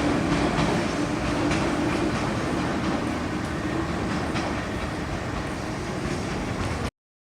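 Running sound inside a JR 103 series 3500-subseries electric train motor car: a steady rumble with the wheels clicking over rail joints, and a faint hum that fades out as the overall level slowly eases. The sound cuts off suddenly near the end.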